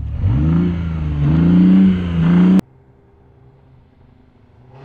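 BMW i8's 1.5-litre turbocharged three-cylinder petrol engine being revved in about three blips, pitch rising and dipping, then cutting off suddenly about two and a half seconds in, leaving a much quieter low hum.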